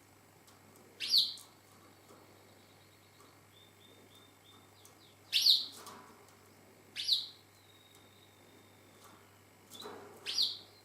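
Domestic canaries calling: four loud, short, high chirps, about a second in, twice close together around five and seven seconds, and near the end. Faint rapid twittering runs between them.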